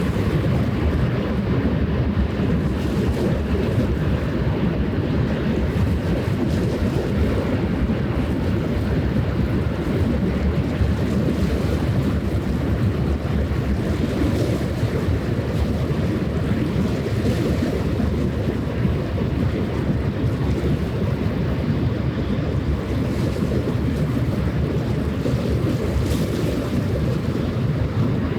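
Wind rushing on the microphone, mixed with waves washing along the shore; a steady low rumble with no sudden sounds.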